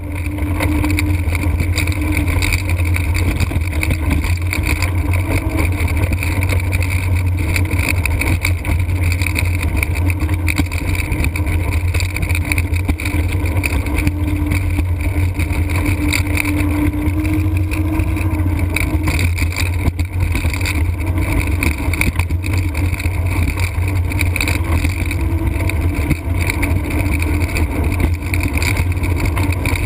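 Steady rushing rumble of a Blokart land yacht sailing fast: wind noise on the kart-mounted microphone over the wheels rolling on the runway, with a faint hum held underneath.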